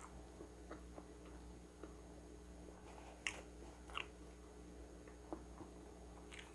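Faint close-miked chewing of a mouthful of food, with a few wet mouth clicks about three and four seconds in and again near the end.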